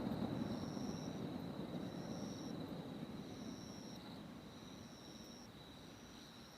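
Low rumble of a firework burst dying away. Insects trill steadily over it, one in on-off phrases about a second long.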